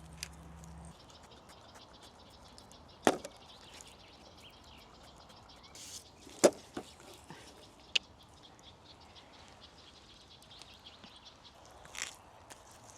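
A few sharp, separate knocks or taps a few seconds apart, over a faint outdoor background.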